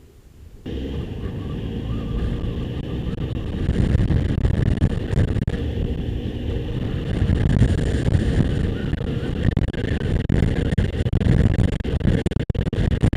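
Motorcycle engine running under way, mixed with heavy wind noise on the microphone; it starts abruptly under a second in and builds in level over the next few seconds.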